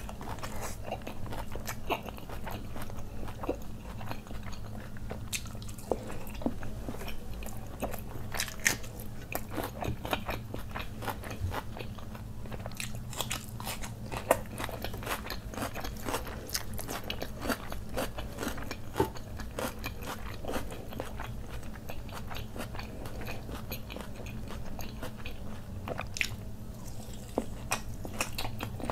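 Close-miked mouth sounds of a man eating fried rice and butter chicken by hand: wet chewing with many sharp smacks and clicks of the lips and mouth. A steady low hum runs underneath.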